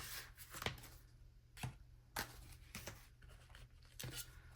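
Faint rustling and a few light taps of paper bills and plastic binder pockets being handled.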